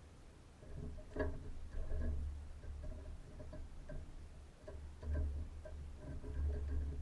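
Great spotted woodpecker pecking at a bird feeder: irregular sharp taps, over a steady low rumble.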